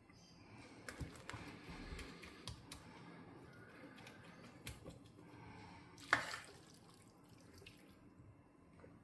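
Metal spoon scooping a moist spinach and vegetable filling from an enamel pot and packing it into a hollowed-out bread loaf: faint soft scrapes and small taps, with one sharper knock about six seconds in.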